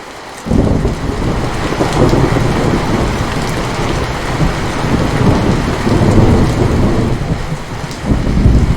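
Steady rain falling, with a long rumble of thunder breaking in suddenly about half a second in and rolling on, swelling again near the end.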